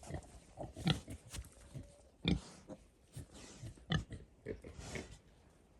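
Pigs grunting in short, irregular grunts.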